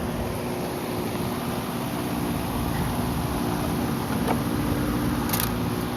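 Carrier Comfort central air conditioner outdoor unit running steadily on its first startup of the season: a constant compressor hum under the rush of the condenser fan.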